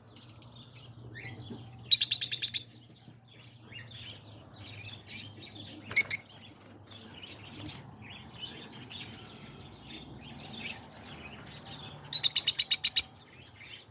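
Small parrots, peach-faced lovebirds, chirping in a cage: two loud bursts of rapid chattering notes, about two seconds in and near the end, and one sharp call midway, over softer scattered chirps.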